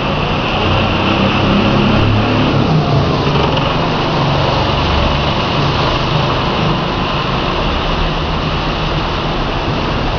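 Heavy thunderstorm rain pouring down in large drops: a loud, steady hiss with a low rumble underneath.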